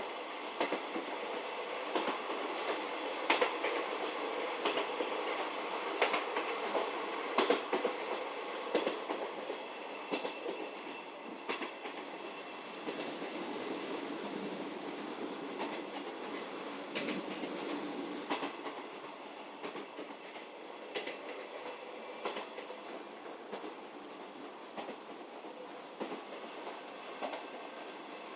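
711 series electric multiple unit running on the line, heard from inside the carriage: a steady rumble of wheels on rail with repeated clicks and clacks over the rail joints. The running noise eases somewhat in the second half.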